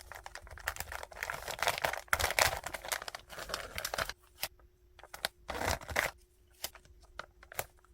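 Packaging being handled for an order: plastic wrap and paper crinkling and rustling with small clicks and taps. Busy for the first four seconds, then sparser, with a short rustle near the six-second mark.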